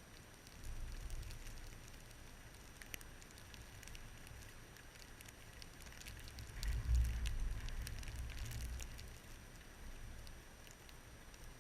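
Blizzard wind gusting against the microphone as a low rumble that swells and eases, strongest about seven seconds in, with scattered light ticks and crackles over it.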